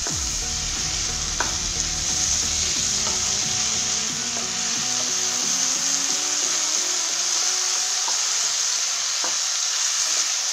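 Cabbage, peas and green chutney sizzling in hot oil in a nonstick pan while a wooden spatula stirs them steadily, with a few light taps and scrapes of the spatula against the pan.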